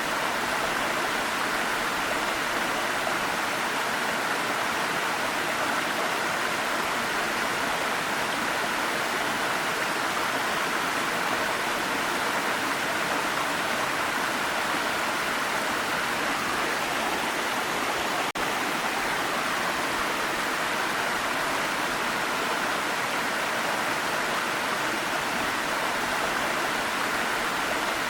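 Waterfall rushing steadily, an even wash of falling water, with one momentary dropout about two-thirds of the way through.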